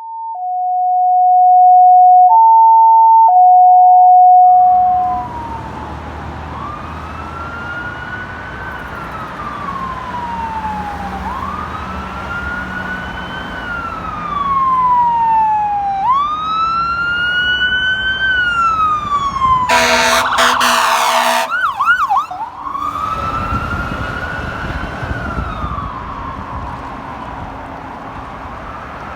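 Fire apparatus electronic siren wailing in slow rising-and-falling sweeps over road noise. It is cut by a loud air-horn blast about two-thirds of the way in, then a few fast warbling yelps, and then the wail resumes. Before the siren starts there are a few seconds of steady electronic tones that step between two pitches.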